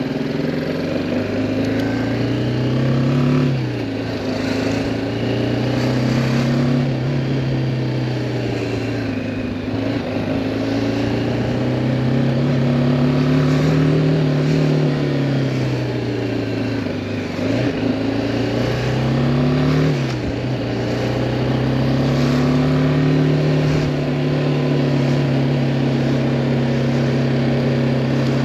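2018 BMW G310R's single-cylinder engine heard from the rider's seat, its pitch climbing and falling several times as the bike accelerates and rolls off, then holding steady near the end.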